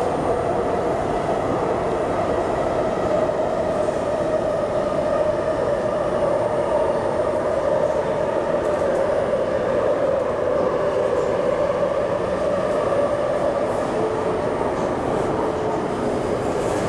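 Running noise inside the passenger car of an MTR IKK-train electric multiple unit moving at speed: a steady rumble and hiss of wheels on track with a humming tone that drifts slowly lower.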